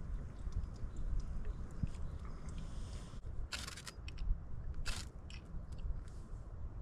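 A person chewing and biting into fried food (black pudding and potato pancakes), with scattered small mouth clicks and two short, louder crunches about three and a half and five seconds in.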